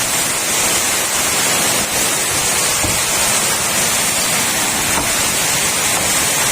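Heavy rain pouring down in a steady, unbroken hiss during a storm.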